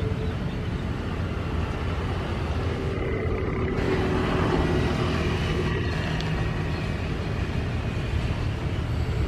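Jet airliner engines running at a distance: a steady rumble with a faint whine that swells a little near the middle.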